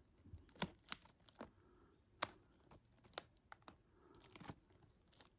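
Faint, scattered crinkles from a foil Doritos chip bag being handled, heard as a string of soft, irregular ticks.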